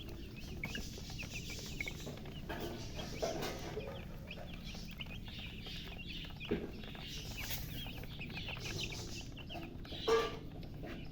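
A group of baby chicks peeping continuously, many short high chirps overlapping, which the uploader puts down to thirst. A short sharp knock comes about six and a half seconds in and a louder, fuller sound near the end.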